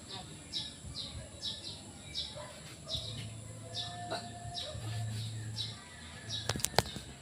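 A bird chirping over and over, short high notes about two or three a second, over a steady high-pitched ringing. A low hum comes in for a few seconds midway, and a few sharp clicks sound near the end.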